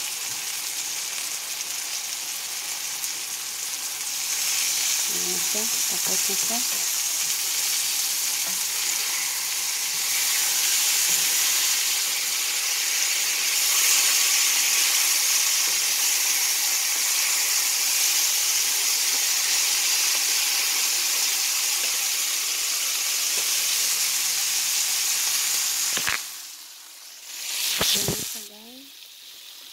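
Eggplant, pork, mushrooms and vegetables sizzling as they stir-fry in a hot cast-iron pan, stirred with a wooden spatula: a steady frying hiss. The hiss cuts off sharply near the end, with one short burst of sizzle just after.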